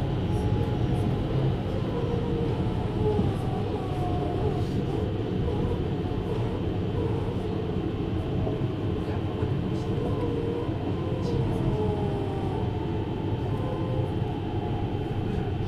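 Running sound of a 733 series electric train heard from inside the car: a steady rumble of wheels on rail, with faint wavering tones above it.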